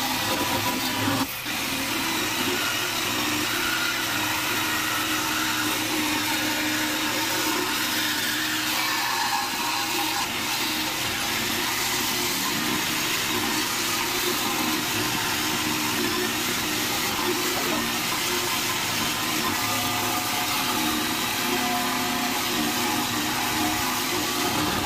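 Angle grinder running steadily with its disc in steel, cutting out old welds.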